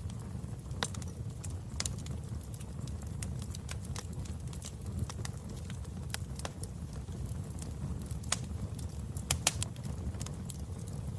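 Wood fire burning in a fireplace: a steady low rumble of the flames with scattered sharp crackles and pops, a quick cluster of pops about nine and a half seconds in.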